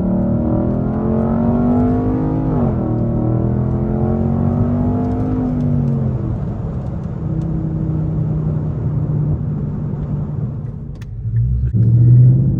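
Straight-piped Infiniti M56 5.6-litre V8 under acceleration. The revs climb, drop sharply at a gear change about two and a half seconds in, climb again until about six seconds, then settle lower and steadier. The exhaust goes quieter briefly near the end before coming back in loud.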